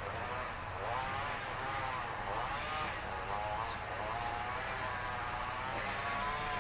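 Gas string trimmer (weedeater) engine running, its pitch wavering up and down about once a second as the throttle is worked, over a low steady hum.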